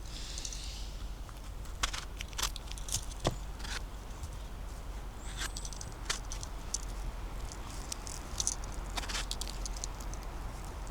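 Footsteps through forest litter: irregular crackles and snaps of dry twigs and leaves, with a few short rustles between them.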